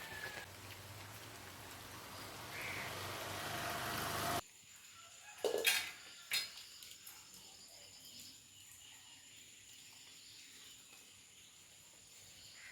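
Steady hiss of falling rain that grows louder over the first four seconds, then cuts off abruptly; a couple of sharp knocks follow over a faint background.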